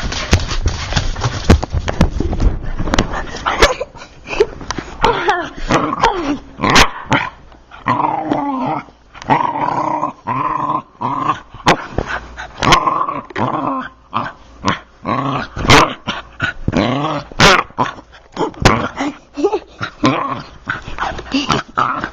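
A dog growling and barking over and over in a rough play-attack, with sharp scuffling knocks in between.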